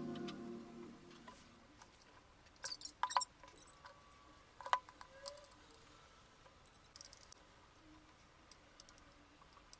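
Background music fades out in the first second, then faint, scattered clicks and clinks of small hard parts being handled, a few sharper ones around three and five seconds in.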